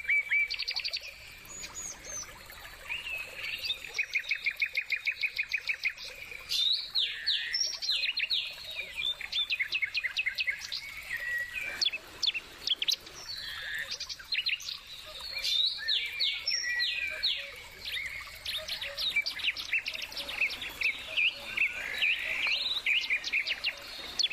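Songbirds chirping and singing, with rapid trills of about seven notes a second mixed with short sweeping chirps, several calls overlapping.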